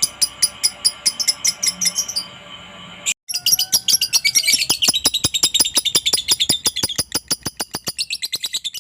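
Lovebird chattering in a fast string of sharp, high chirps, several per second, of the kind used as a lure call to set other lovebirds calling. About three seconds in the chirps break off briefly, then resume in a faster, denser run.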